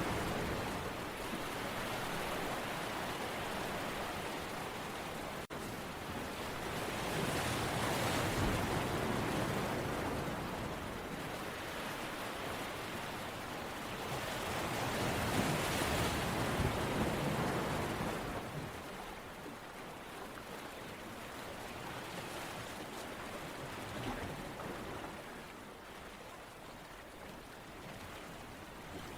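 Ocean waves washing in, a steady hiss that swells and ebbs in slow surges several seconds apart.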